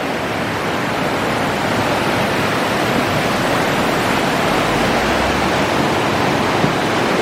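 Fast, strong river current rushing steadily below, a loud even wash of water noise.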